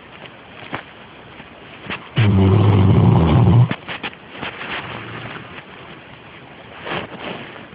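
Great Dane snoring in its sleep: one loud, low snore about two seconds in, lasting about a second and a half, then a softer breath near the end.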